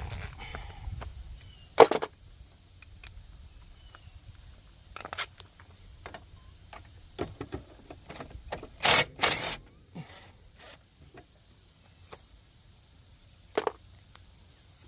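Metal hand tools clinking and rattling as sockets and an extension are handled and swapped, in scattered sharp clicks; the loudest come as a pair about nine seconds in.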